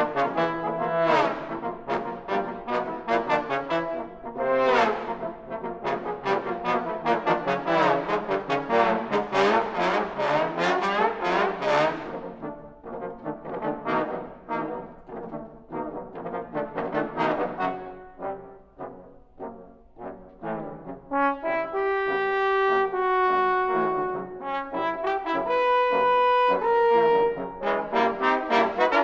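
Trombone ensemble playing: fast, detached notes at first that thin out about halfway through, then long sustained chords near the end.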